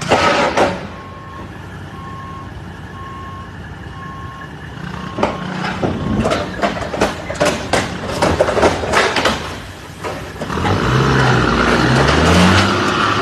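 Truck's reversing alarm beeping at an even pace, a steady on-off tone. Midway it is joined by a run of sharp knocks and clatter, and near the end by the engine revving, its pitch rising and falling.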